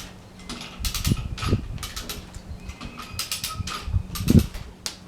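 Irregular metal clinks and clanks from a logging chain and hand winch, with a few dull low thumps of a heavy log shifting, the loudest a little over four seconds in.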